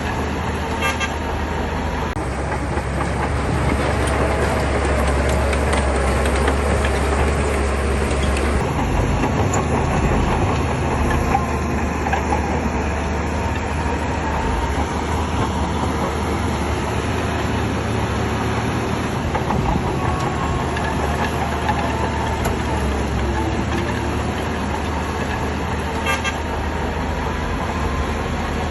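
Shantui bulldozer working, its diesel engine running steadily under a wavering whining squeal from the machine.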